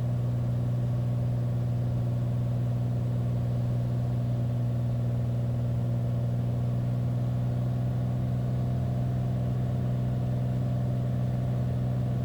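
Beechcraft Bonanza's piston engine and propeller running at a steady drone in the cockpit, at approach power on final with gear down and full flaps.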